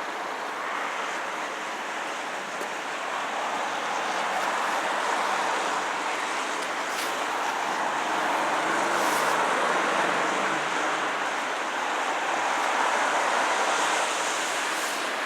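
Road traffic passing the level crossing: cars driving by one after another, the tyre and engine noise swelling and fading several times.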